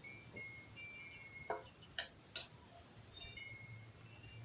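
Spoon clinking against a bowl a few times, with high, short tinkling tones in the background.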